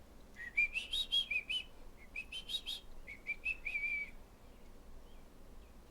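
A bird chirping: two quick runs of short, rising whistled notes, the second ending a little after four seconds in.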